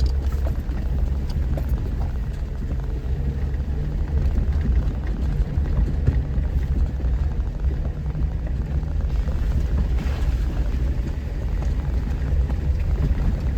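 Off-road vehicle crawling over a rocky trail, heard from inside: a steady low rumble of engine and tyres, with a few faint knocks.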